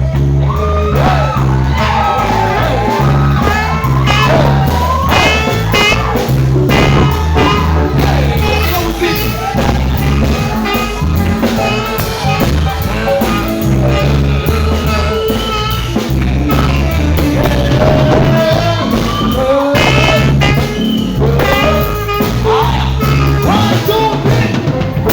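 Live band music with a drum kit, a steady bass line and a wavering lead melody above it, played continuously.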